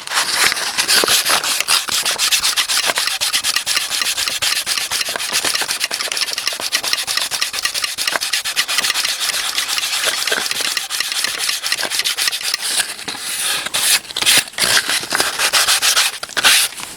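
Sandpaper rubbed by hand over a painted PC case top panel in quick back-and-forth strokes, sanding out blemishes and scratches in the paint. Near the end the strokes become shorter and more broken.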